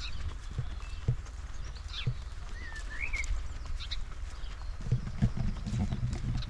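Footsteps of a person walking on a forest path, a soft thud about every half second, with leaf-litter rustle growing denser near the end. A few short high chirps and whistles of small birds come over them.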